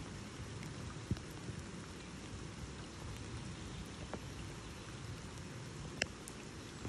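Steady rain falling on a lake's surface, with a few sharp close ticks of drops, the loudest about a second in and again about six seconds in.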